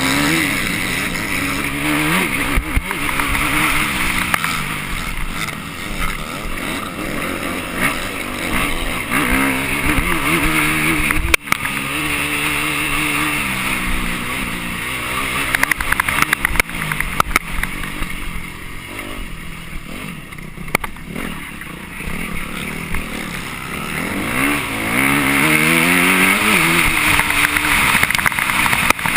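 Dirt bike engine heard on board while riding, revving up and dropping back again and again as the throttle opens and closes. There is a sharp knock about eleven seconds in, and the engine eases off for a few seconds past the middle.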